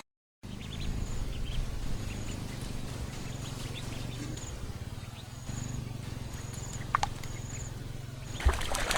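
Outdoor ambience: a steady low hum with a faint high chirp repeating about once a second. Near the end, a burst of dense crackling or splashing noise begins.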